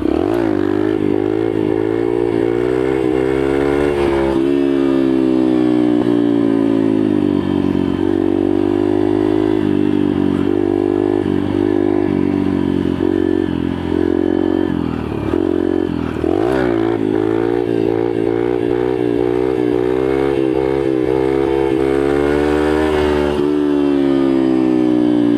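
Yamaha TTR125 pit bike's single-cylinder four-stroke engine under hard acceleration. Its pitch climbs through each gear and drops back at every shift. About sixteen seconds in it falls off briefly, then pulls hard again.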